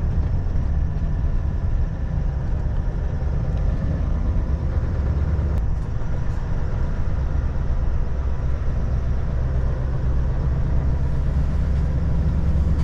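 Scania V8 lorry's diesel engine running steadily at low speed while pulling an oversize trailer, heard from inside the cab as a continuous deep drone with road noise.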